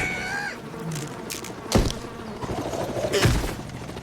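Cartoon sound effects: a steady buzzing, broken by two heavy thuds about a second and a half apart.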